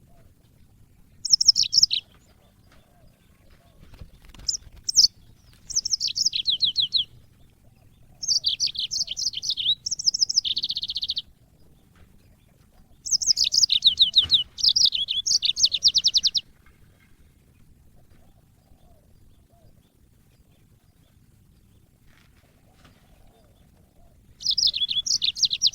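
Yellow-fronted canary (Mozambique canary) singing in bursts of rapid, high trilled phrases, each one to three seconds long, with a long pause after the middle before a last phrase near the end.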